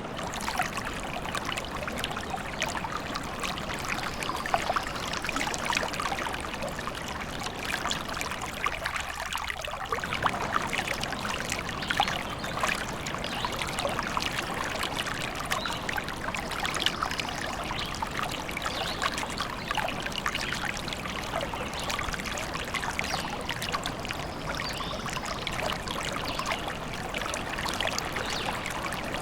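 A small stream trickling and splashing steadily, a busy, crackling rush of running water.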